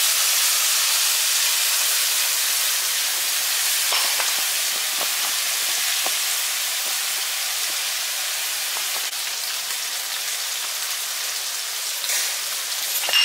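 Squid and chicken frying in a wok over a gas flame, a steady sizzle in oil and sauce, with a few faint clicks a few seconds in.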